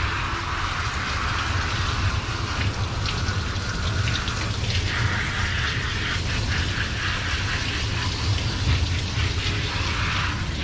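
Water spraying from a dog-wash hose onto a dog in a wash tub: a steady, uneven hiss with a low hum underneath.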